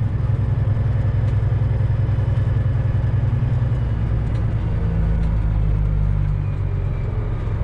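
Semi truck's diesel engine running while driving, heard from inside the cab as a steady low hum; the engine note shifts about five seconds in.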